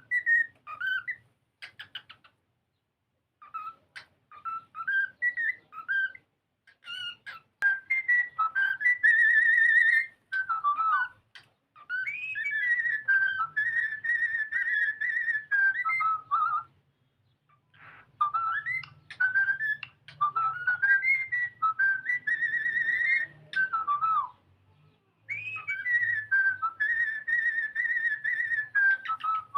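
Cockatiel singing: a whistled song of warbling, gliding notes, given as short phrases at first and then in longer runs of a few seconds each, with brief pauses between them.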